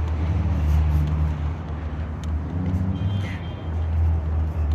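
A car engine idling steadily, a low, even sound.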